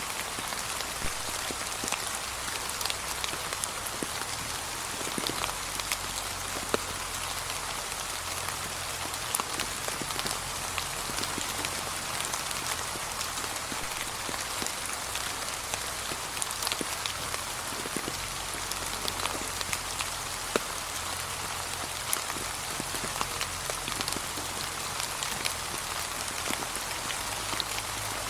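Steady gentle rain, a constant patter with many separate drops ticking sharply on a surface.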